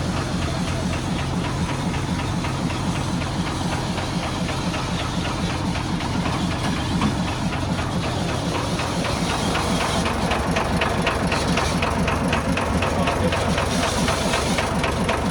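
Rebuilt Nissan diesel truck engine idling steadily, with a regular clatter that becomes more pronounced about two-thirds of the way through.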